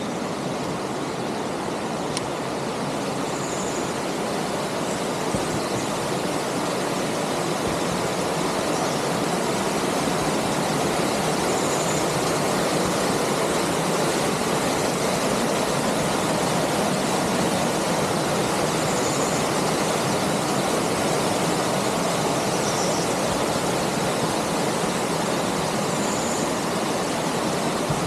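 Steady rush of flowing water, as from a river or waterfall, growing a little louder over the first ten seconds or so.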